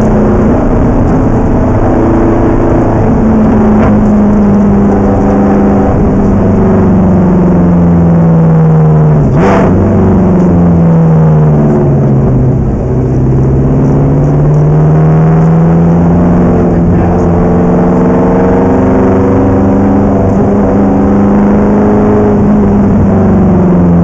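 Ferrari race car engine at speed, heard from on board. Its pitch climbs steadily, drops over a few seconds after a sharp knock about nine seconds in, then climbs again and falls near the end.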